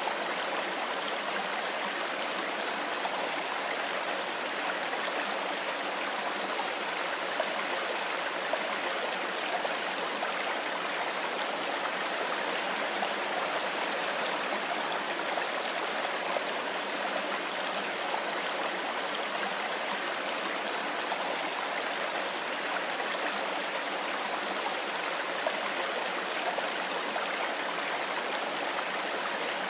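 Mountain river water running over stones in a steady rush, even and unbroken.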